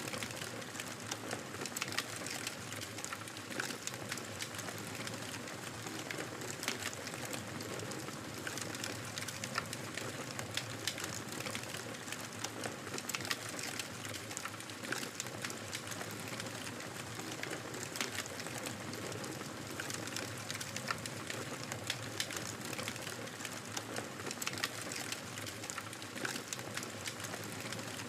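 Wood fire crackling steadily: a constant soft hiss with frequent small sharp pops and snaps scattered irregularly throughout.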